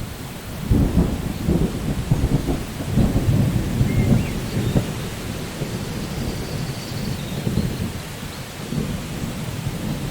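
Steady rain with thunder rumbling, loudest through the first half and easing off later.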